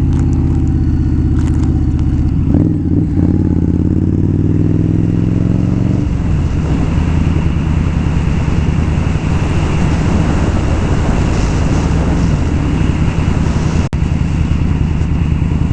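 Indian Scout V-twin motorcycle engine under way: it pulls with a rising pitch for about six seconds, drops suddenly as it shifts up, then runs steadily at speed under a rush of wind and road noise.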